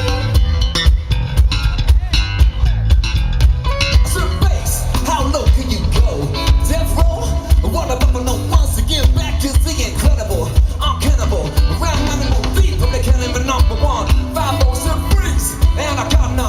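Amplified live band music with a heavy bass and guitar, and a singer's voice coming in about four seconds in.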